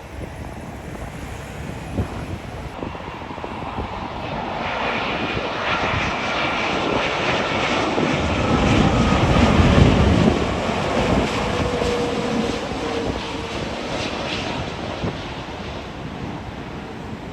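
Jet airliner passing overhead: engine noise builds to a peak about ten seconds in and then fades, with whining tones that drop slightly in pitch as it goes by.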